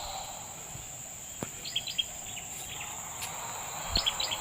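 Steady high-pitched insect drone, with short high chirps twice and two sharp clicks, one about a third of the way in and one near the end.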